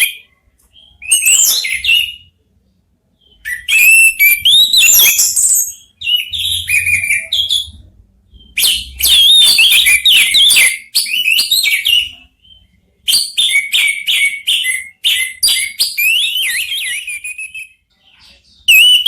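Orange-headed thrushes singing loudly, in repeated bursts of rapid whistled and chattering phrases, each a couple of seconds to several seconds long, with short pauses between them, as if answering one another.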